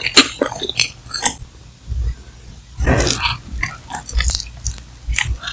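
Close-miked wet mouth sounds: lip smacks and tongue clicks, then about three seconds in a soft, wet bite and chew into a chewy, oily mala snack strip, with more smacking after it.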